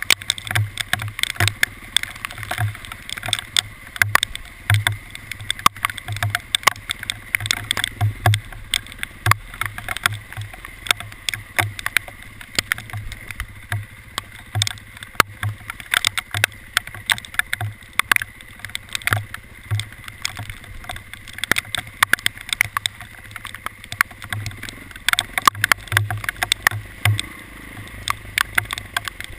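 Hailstones striking, a dense irregular patter of sharp clicks and taps, with a low rumble of travel under it.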